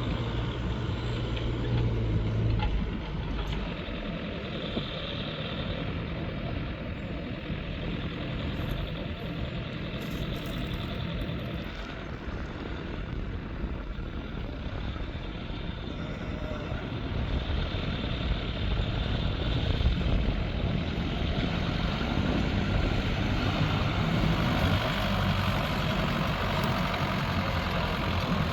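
New Holland TL100 tractor's diesel engine running steadily while ploughing.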